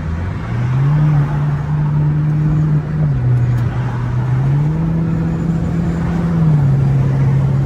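BMW 428i's turbocharged engine running hard under throttle, heard from inside the cabin, with its aftermarket aFE intake. The engine note steps up about half a second in, drops near three seconds, climbs again near four and a half seconds and falls back after six and a half.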